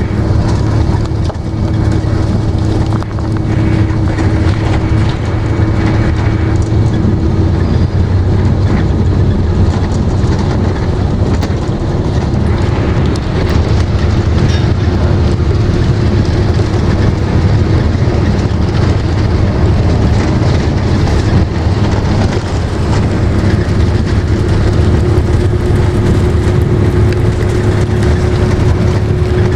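Steady drone of a vehicle driving on the highway: engine hum and road noise, with a low hum and a higher tone that rises slightly near the end.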